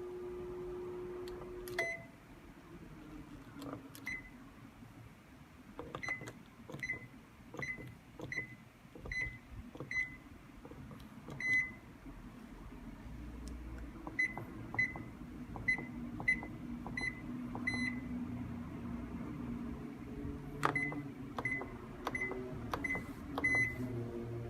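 Control panel of a Toshiba AW-42ML fully automatic washing machine beeping as its buttons are pressed: about nineteen short high beeps, each with a click, in quick runs. A steady tone stops about two seconds in, and a low hum runs underneath.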